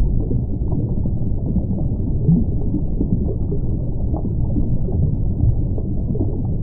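Steady, muffled low rumble of underwater-style ambience with no clear tones.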